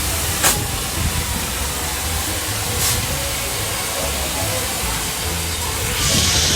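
Steady low mechanical rumble with a background noise haze and a couple of faint clicks; about six seconds in, a loud hiss of air or spray starts.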